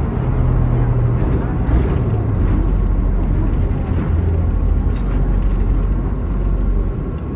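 MAZ-216 city bus under way, its diesel engine and road noise heard from inside the passenger cabin. The engine note steps lower over the first few seconds, and the sound eases a little near the end.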